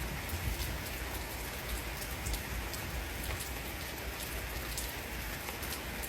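Steady heavy rain falling, with individual drops striking close by as many sharp ticks over a constant hiss.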